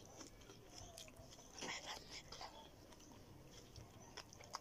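Faint close-up chewing of shrimp and sweet potato leaves, with scattered small wet clicks and one louder moment a little under two seconds in.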